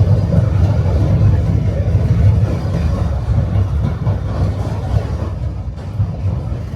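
Tram running along the rails, heard from on board: a steady low rumble of wheels and running gear that eases slightly near the end.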